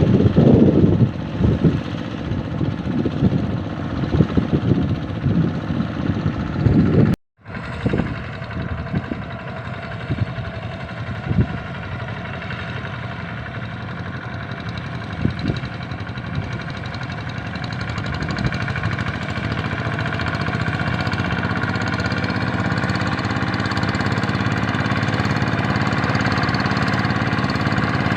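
Hand tractor's Kubota RD85 DI-2S single-cylinder diesel engine running, with an uneven knock for the first several seconds. The sound cuts out for an instant about seven seconds in, then runs on more steadily, growing gradually louder.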